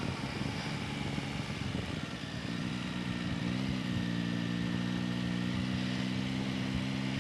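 Yamaha Tracer 9 GT's 890 cc inline-three engine running as the bike is ridden. Its note is uneven at first, then rises briefly about three and a half seconds in and settles into a steady tone.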